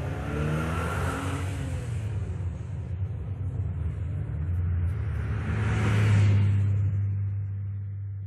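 Cars accelerating hard at full throttle: a low engine and exhaust drone with the pitch rising in the first couple of seconds, swelling to its loudest about six seconds in along with a rush of wind and tyre noise, then easing off.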